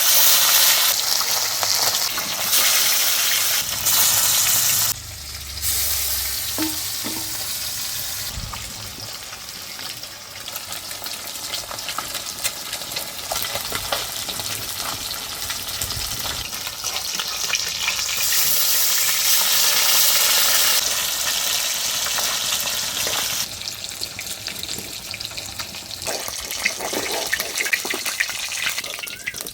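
Pieces of katla fish, rubbed with turmeric and salt, frying in hot oil in a karai (wok): a steady loud sizzle. It eases off about five seconds in and swells again later, with light spattering ticks.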